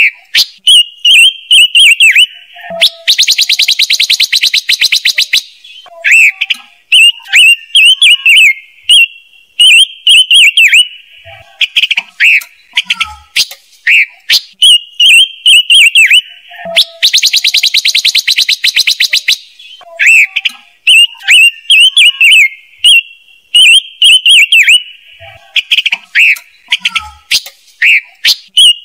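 Lure recording of the bird called ngũ sắc in Vietnamese, a small songbird: a run of quick, wavering chirps, broken twice by a rapid chattering trill of about two and a half seconds. The pattern repeats about every fourteen seconds, as a looped call played to draw birds to a trap.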